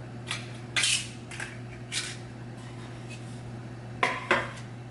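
Kitchenware clinking and clattering as a cupcake pan and baking utensils are handled: a few short knocks, with two sharper ones near the end.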